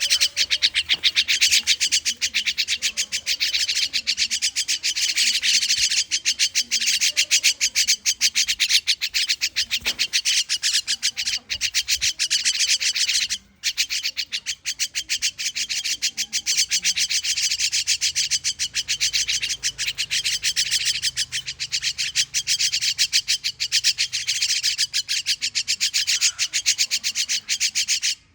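A bird calling in a fast, unbroken chatter of high notes, breaking off briefly about halfway through.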